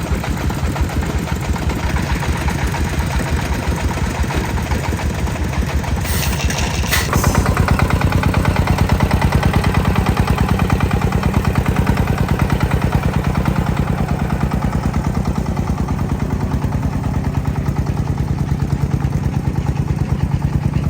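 Tractor engine running with a fast, even chugging beat. Two sharp knocks come about six and seven seconds in, after which the engine runs louder.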